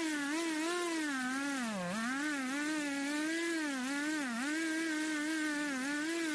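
Two-stroke chainsaw running at high revs, its pitch bogging down sharply a few times as the chain bites into the wood, then climbing back.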